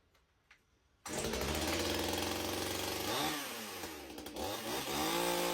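One-handed top-handle chainsaw's two-stroke engine firing suddenly about a second in and running, its speed dipping twice and then rising to a higher, steady pitch near the end. It is running after its torn carburetor adapter was replaced.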